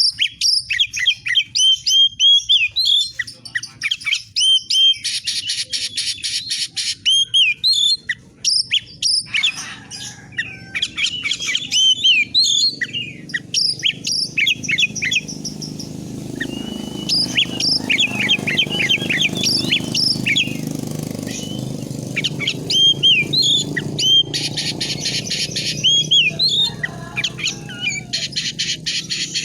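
Oriental magpie-robin (kacer) singing continuously: a fast run of whistled, slurred notes broken by rapid, buzzy rattling phrases. A low hum sits underneath from about halfway through.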